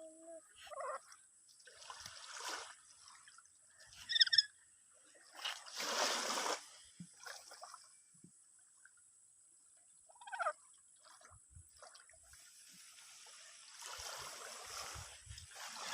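A lory (nuri parrot) gives only a few short, scattered calls, the sharpest about four seconds in and another near ten seconds, between washes of surf on the shore. The bird is calling softly and haltingly, the way it does when unsettled by the waves in an unfamiliar place.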